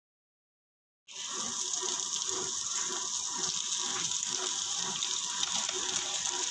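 Diced boiled pork and chopped onion sizzling in a frying pan: a steady crackling hiss that starts suddenly about a second in.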